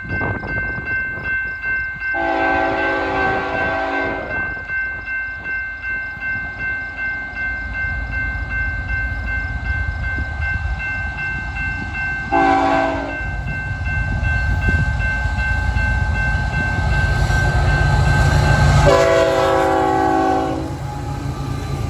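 A BNSF freight locomotive's air horn sounds for a grade crossing: a long blast, a short one about ten seconds later, then a final long blast near the end. Under it the train's low rumble builds steadily, with a thin steady ringing tone until the last blast.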